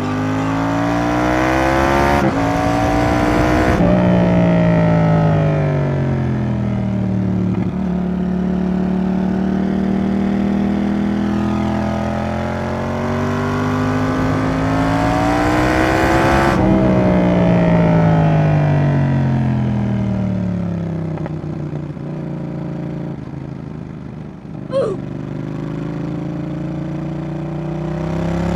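Yamaha XSR700's parallel-twin engine through a Roadsitalia aftermarket exhaust, pulling hard with an upshift about two seconds in, then closing off and falling away on engine braking. It holds steady for a few seconds, pulls again, drops sharply at a shift or throttle-off, winds down, blips briefly near the end, then pulls once more.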